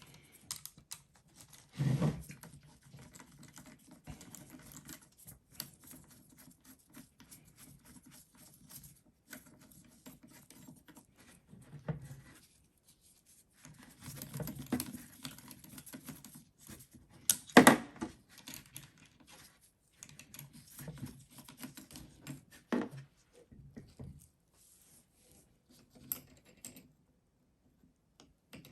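Bolts being unscrewed from a starter motor's end frame with hand tools: runs of small rapid clicks and scratches, with occasional knocks of metal parts and tools, the loudest about 17 seconds in.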